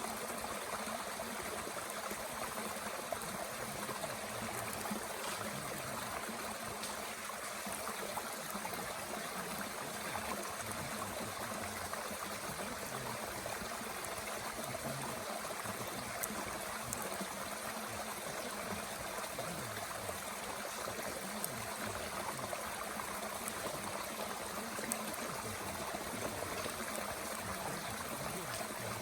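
Mountain stream flowing steadily, with a few faint crackles from a small wood fire burning in a Bushbox stove.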